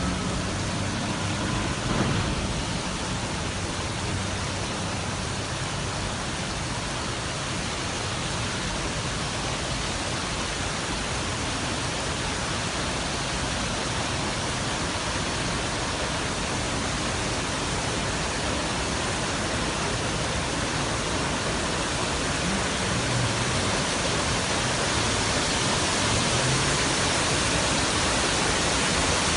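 Steady rush of water, a dense even noise with no rhythm, growing slightly louder near the end.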